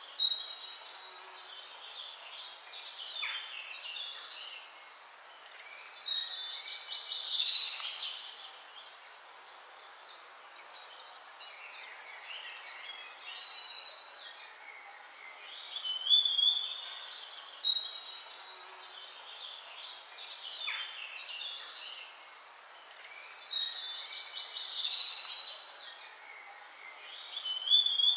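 Songbirds chirping and singing, several voices overlapping, with louder bursts of song about every eight to ten seconds.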